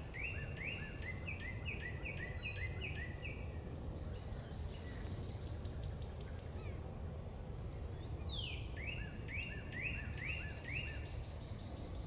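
A songbird singing: a run of about eight quick, repeated whistled notes, then after a pause a long falling whistle followed by another run of similar notes. A higher, rapid trill sounds briefly twice, over a steady low rumble.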